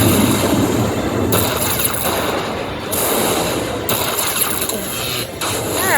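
Slot machine sound effects at the close of a hold-and-spin bonus, a dense run of electronic clicking and coin-like jingles as the bonus is tallied.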